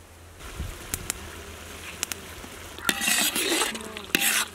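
Red chilli, onion and tomato masala frying in oil in a large kadai, sizzling as a ladle stirs and scrapes through it. A few light clicks come first, then the sizzling and scraping grow much louder about three seconds in.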